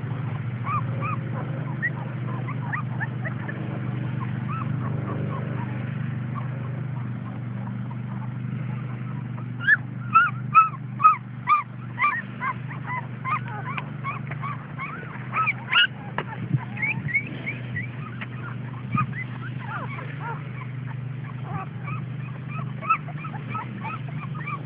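Young pit bull puppies whimpering in many short, high cries, thickest about ten to sixteen seconds in, over a steady low hum.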